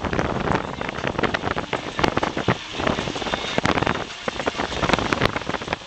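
Wind buffeting the microphone: a rough, irregular rushing noise with many sudden jolts.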